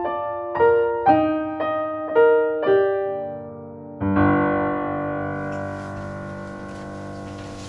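Solo piano music: a repeated figure of single notes, about two a second, then a sustained chord struck about four seconds in that slowly dies away.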